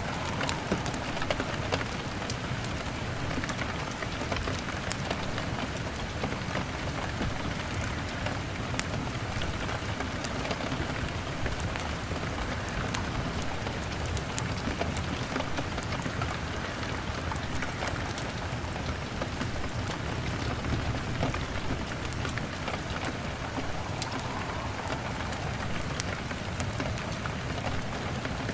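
Steady rain pattering on a window, mixed with the crackle of a wood fire: an even wash of rain noise dotted with many small, sharp pops.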